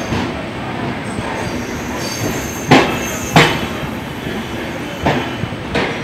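Passenger train carriage running on the rails, heard from inside: a steady rumble of the wheels, broken by two pairs of sharp clacks, about three seconds in and again near the end, as the wheels cross rail joints.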